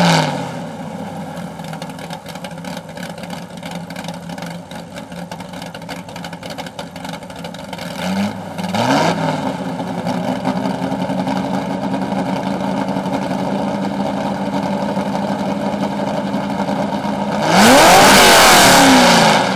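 Ford GT40's V8 idling through its exhaust. It settles from a rev at the start, is given a short throttle blip about eight seconds in, and a longer, louder rev near the end.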